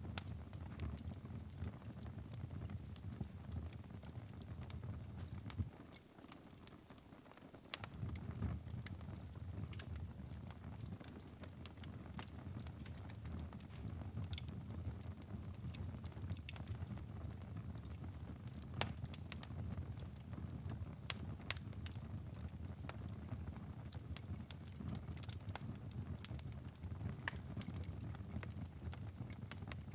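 Wood fire burning in a fireplace: irregular sharp crackles and pops over a steady low rumble of the flames. The rumble dips briefly about six seconds in.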